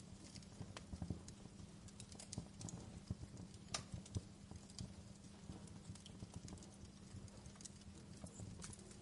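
Wood fire crackling: irregular snaps and pops, a few sharper ones a little before and just after four seconds in, over a low steady rumble.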